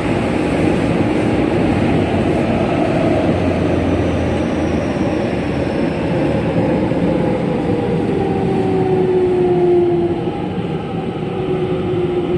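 Running noise of a JR West 207 series electric train, still on its original traction motors. Through the rumble, the motor and inverter whine slides steadily down in pitch as the train slows, and the sound eases slightly near the end.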